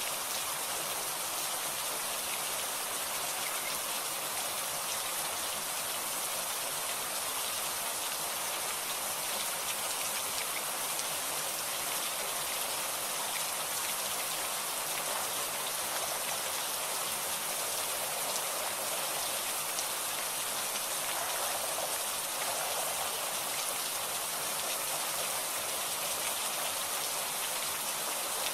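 Steady heavy rain falling, a dense even hiss of drops striking surfaces with no thunder.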